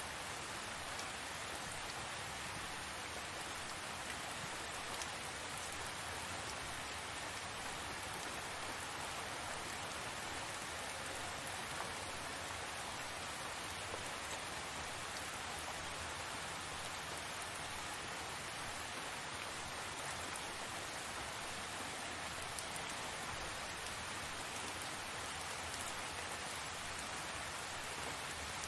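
Steady rain falling, an even hiss of many drops with a few faint individual drip clicks.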